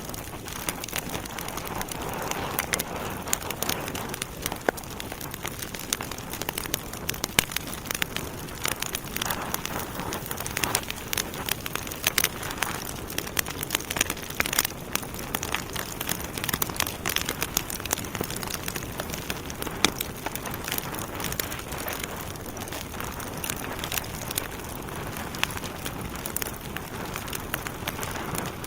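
Wood fire burning in a fireplace: a steady hiss with many sharp crackles and pops from the burning logs.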